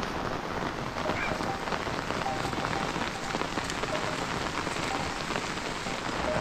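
Heavy rain falling steadily, a dense even hiss of many drops striking the ground and surfaces.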